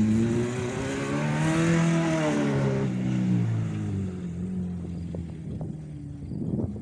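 Acura RSX's four-cylinder engine revving up, its pitch rising to a peak and then falling away as it eases off, with a few sharp clicks near the end.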